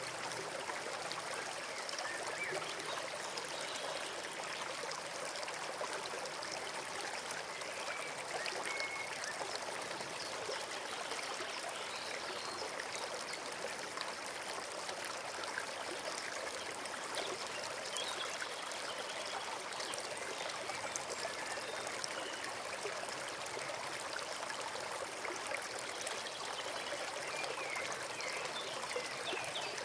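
Brook running with a steady rush and trickle of water.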